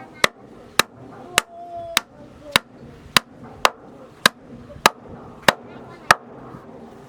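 Hammer blows on wood, nailing floor planks, struck in a steady rhythm of a little under two blows a second.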